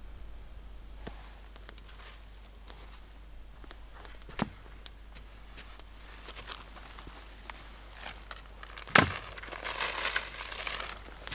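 Rustling and crinkling handling noise with scattered small clicks. About nine seconds in comes a sharp knock, followed by a burst of rustling that lasts a second or two.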